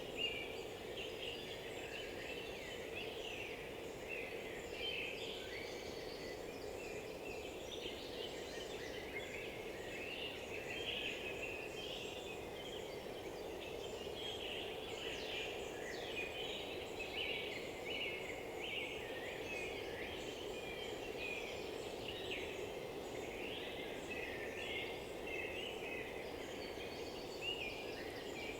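Dense chorus of several songbirds singing at once, short chirps and trills overlapping without a break, over a steady low background hum.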